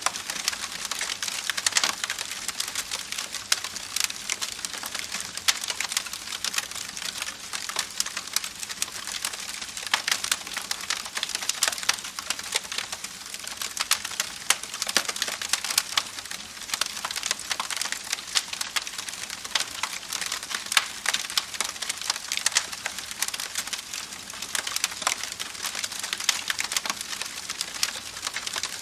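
Wood fire burning with continuous dense crackling, many sharp pops and snaps over a steady hiss.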